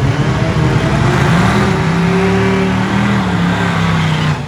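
A car engine running loudly, its pitch climbing about a second and a half in and then holding under load, as when accelerating. The sound cuts off abruptly near the end.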